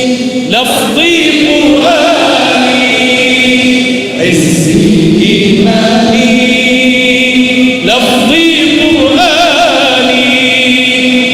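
Male voices chanting an Arabic religious nasheed: long held notes with wavering melodic turns, in phrases that restart about every four seconds.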